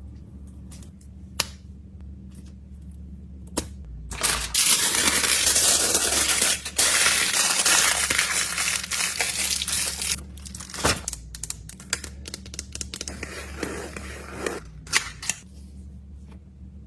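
Plastic fidget toys and containers being handled and packed: scattered clicks and taps, with a loud stretch of dense rustling from about four to ten seconds in.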